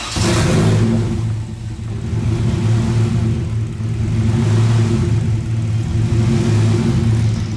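Turbocharged Honda K20 inline-four engine running on its first start-up after the turbo install. It comes in loud with a hiss at the top end, then settles into a steady, slightly uneven idle.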